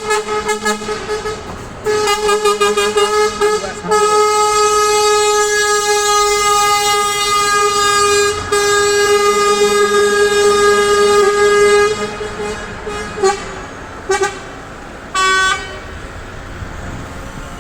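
Truck air horns: a rapid run of pulsing toots, then long held blasts lasting about eight seconds, ending with three short toots. Traffic rumble runs underneath.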